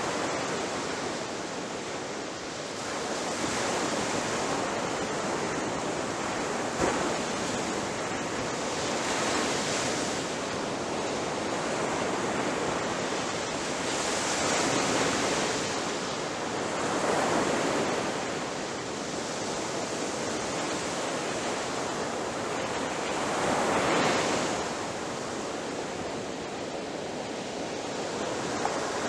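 Ocean surf breaking on a beach: a steady wash of noise that swells as each wave breaks, every few seconds, with one sharp click about seven seconds in.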